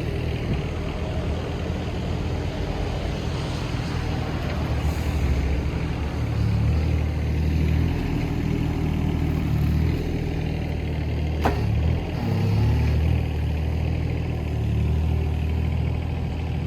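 Hitachi ZX18 mini excavator's diesel engine running while digging, its note swelling and easing as the hydraulics take load. One sharp metallic clank about two-thirds of the way through.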